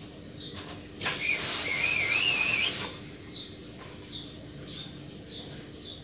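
Small birds chirping in short high notes, with a loud hiss and a wavering whistle lasting nearly two seconds about a second in.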